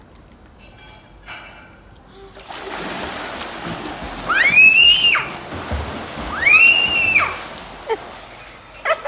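Water splashing and sloshing, with two loud high-pitched squeals about two seconds apart in the middle.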